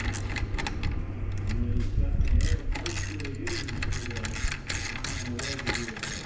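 Hand tools and small metal parts being worked: a run of quick, irregular clicks and rattles over a steady low hum.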